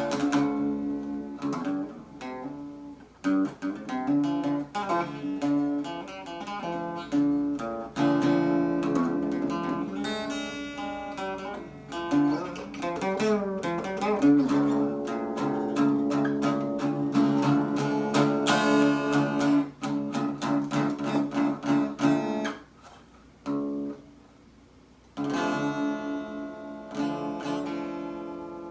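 Solo acoustic guitar playing, picked and strummed, with a short near-silent pause a few seconds before the end before it starts again.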